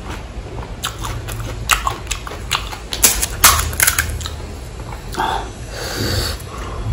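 Close-up eating sounds: crisp pani puri shells crunching and being chewed, in a run of sharp crunches that is thickest about three to four seconds in.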